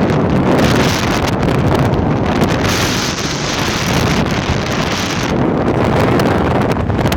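Strong wind buffeting the microphone: a loud, rumbling roar that rises and falls in gusts.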